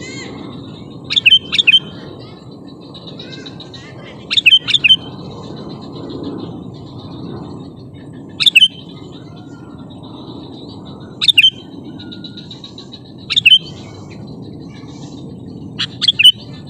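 Sooty-headed bulbul calling loudly in short bursts of two or three sharp, bubbly notes, repeated about every three seconds.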